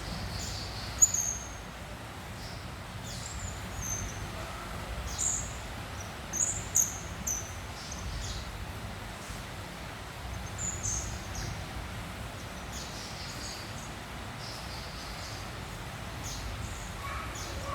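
Young hill blue flycatcher (tledekan gunung) twittering in short, high chirps now and then, over a steady low background rumble.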